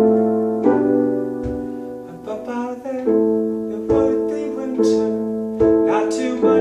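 Piano playing an instrumental passage of slow chords, a new chord struck roughly once a second and left to ring and fade.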